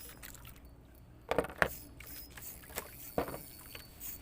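A few sharp knocks and rattles of fishing tackle being handled on a small boat, a cluster about a second and a half in and a couple more near three seconds, over a low steady background.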